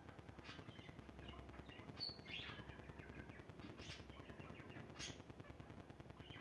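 Small birds chirping, with short high calls every second or so and one brief whistled note, over a fast, even low pulsing of about four to five beats a second.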